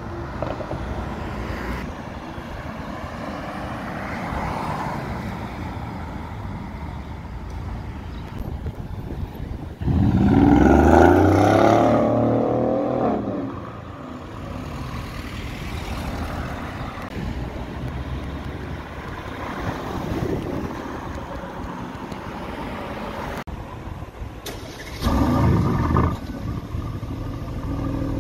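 City street traffic with cars passing. About ten seconds in, a high-performance car's engine gets suddenly loud as it accelerates hard, its pitch rising for about three seconds. A second short, loud engine burst comes near the end.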